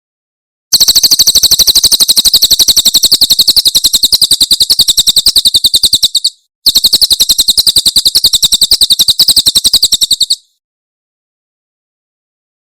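A cililin bird's 'tembakan' call: a fast, even trill of high, sharp notes, about ten a second. It runs in two long bursts with a short break between them.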